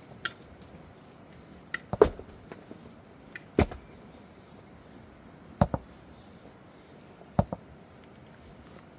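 A series of sharp knocks, about five, spaced a second or two apart, the loudest about two seconds in, over a steady background hiss.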